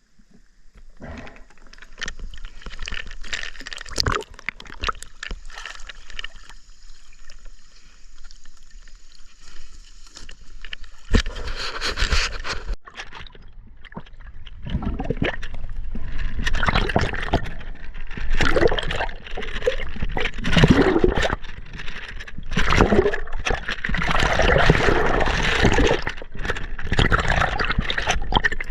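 River water gurgling and splashing close to the camera, with scattered knocks and scrapes; it grows louder and busier about 11 seconds in.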